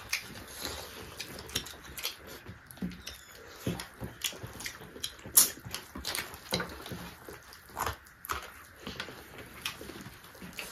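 Close-up eating sounds: irregular wet smacks and clicks of several people chewing and lip-smacking as they eat rice and chicken gizzard by hand, with one louder smack about halfway through.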